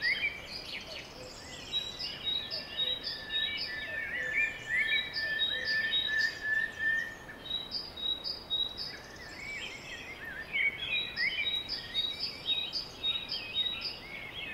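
Many birds chirping and singing at once: quick repeated high notes and trills over a few long held whistles, thinning out for a moment a little past halfway.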